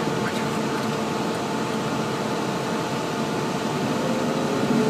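Cessna Citation CJ3's turbofan engines running at low power: a steady rushing noise with a steady hum in it, and a faint tone starting to rise near the end.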